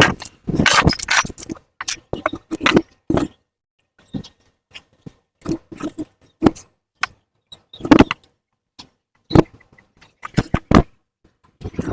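Irregular knocks, clanks and scrapes of hand tools and metal parts being handled during motorcycle exhaust work, with short quiet gaps between them.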